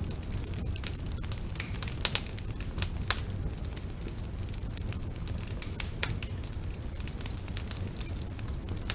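Wood fire burning in a fireplace: a steady low rumble of the flames with dense, irregular crackling, a few louder pops about two and three seconds in.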